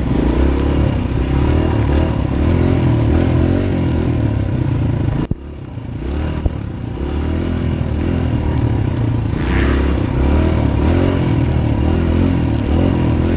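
Dirt bike engine running hard as the bike is ridden along a trail, the revs rising and falling with the throttle. About five seconds in, the sound drops off sharply for a moment, then picks up again.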